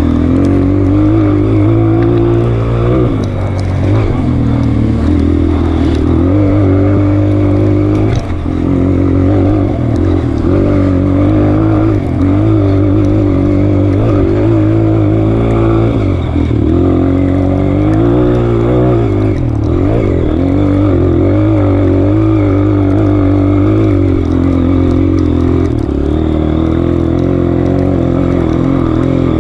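Honda CRF230F's air-cooled four-stroke single-cylinder engine running on a trail ride, its pitch rising and falling continually as the throttle is opened and closed.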